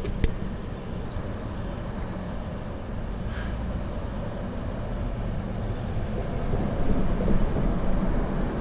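Steady engine and road noise from a police car on the move, growing a little louder about seven seconds in.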